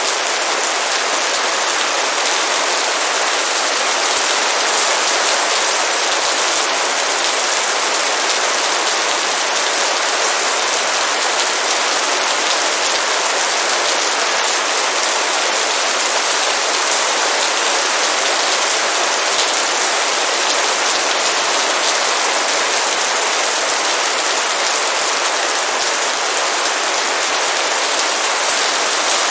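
Heavy rain pouring down steadily, a dense, even hiss of drops with no break.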